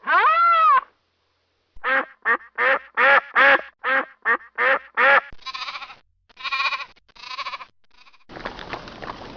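The end of a rooster's crow, then a duck quacking: a quick run of about ten short, sharp quacks, followed by a few rougher, raspier quacks. Near the end a steady rushing noise begins.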